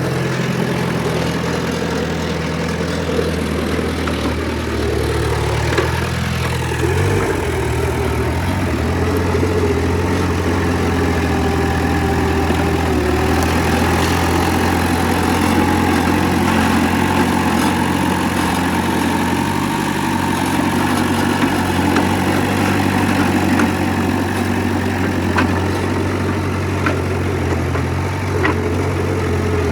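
Heavy diesel engine of earthmoving machinery running steadily, its pitch shifting about seven seconds in, with a few light clicks near the end.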